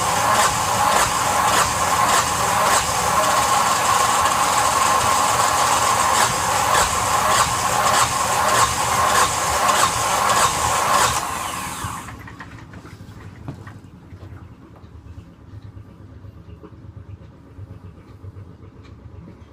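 Yanmar SB12 single-cylinder marine diesel running with a steady knocking beat, then dying about eleven seconds in, its fuel feed failing again after the line was bled.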